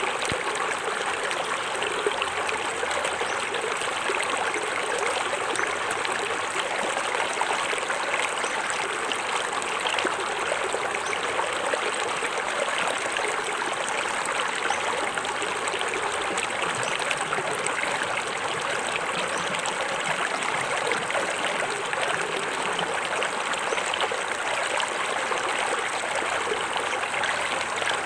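Small forest waterfall splashing and trickling steadily into a stream.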